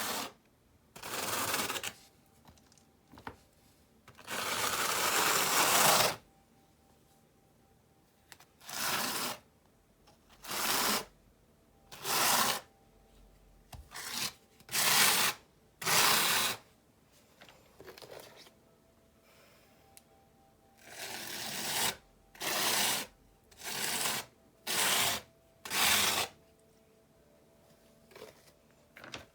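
About a dozen short, rough rubbing or scraping strokes, each lasting half a second to a second, with one longer stroke of about two seconds a few seconds in, separated by pauses.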